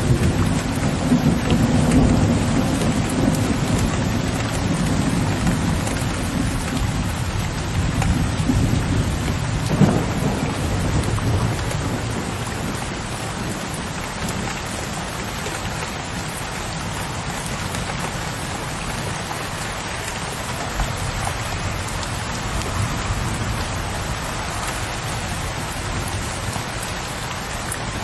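Steady rain falling on a window ledge with a low, rolling thunder rumble through the first part and a sharper thunder crack about ten seconds in; the rumble then dies away, leaving the steady rain.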